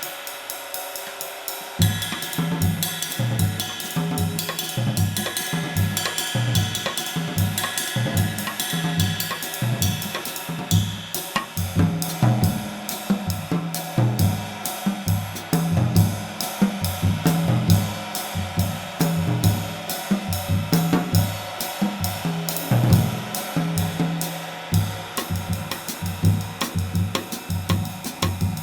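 Handmade 20-inch B20 bronze medium-light ride cymbal played in a drum-kit groove, its ride pattern washing over kick and snare. For about the first two seconds the cymbal is heard with no kick under it, then the full kit groove comes in.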